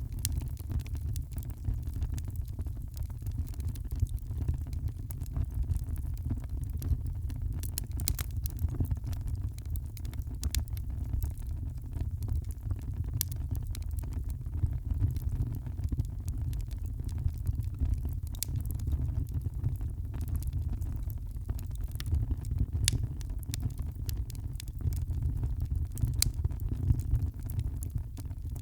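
Wood fire burning in a fireplace: a steady low rumble of the flames with frequent irregular crackles and sharp pops.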